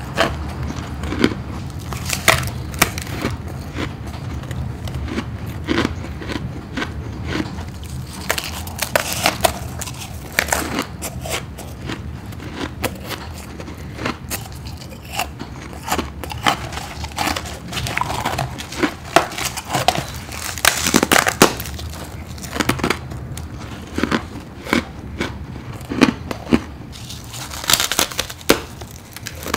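Close-up bites and chewing of frozen frost ice from a deep freezer: a run of uneven sharp crunches and crackles, thicker in a few bursts, over a steady low hum.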